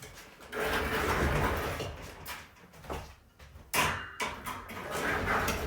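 Refrigerator cabinet being turned around and shifted: long scraping and rubbing with a few sharp knocks, the loudest about four seconds in.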